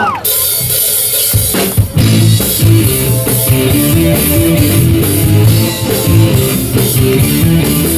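Live rock band starting a song: after a brief lull, drums, bass and electric guitar come in together about a second and a half in and play a driving, steady beat.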